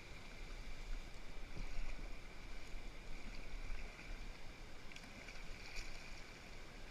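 Steady rush of river rapids, muffled through a GoPro's waterproof housing, with a couple of faint knocks near the end.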